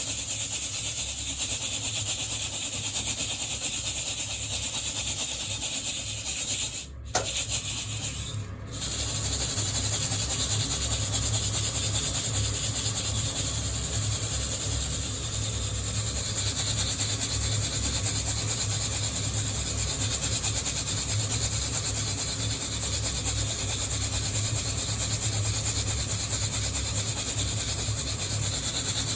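Coffee beans rattling and rubbing against the wire mesh of a hand-held roasting net as it is shaken steadily, a continuous scratchy rustle. The sound drops out briefly twice, about seven and eight and a half seconds in.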